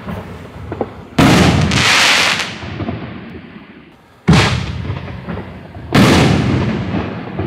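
5-inch canister shells from a Fox Fireworks T-800 24-shot repeater: a shell bursts overhead about a second in, with a brief hiss after the bang. About four seconds in a shell lifts from its tube with a thump, and it bursts about six seconds in, the boom echoing away.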